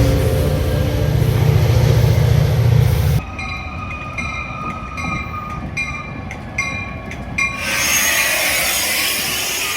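Commuter train door-closing sequence: a low train rumble, then an abrupt cut about three seconds in to a rapid series of short electronic warning beeps from the coach's doors, followed near eight seconds by a steady hiss of air.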